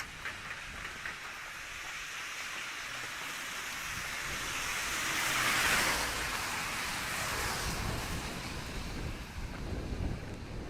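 Rain falling while a vehicle passes on the wet street, its tyres hissing louder as it nears, loudest about halfway through, then fading away.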